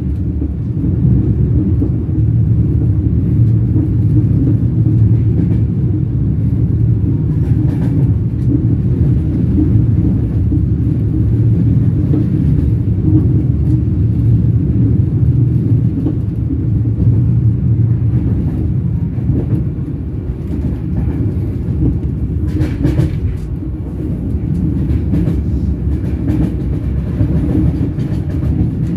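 Train wheels running on the rails: a steady, loud low rumble, with a few faint clicks about a third of the way in and again about three quarters through.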